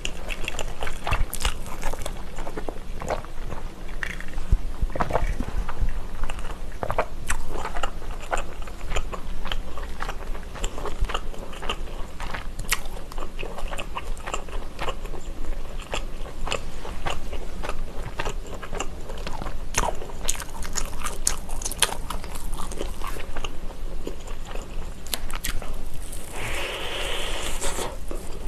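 Close-up eating sounds of a woman biting and chewing fried, sauce-glazed street-food skewers: irregular crunchy bites and wet chewing. Near the end there is a brief, louder stretch of wet mouth noise.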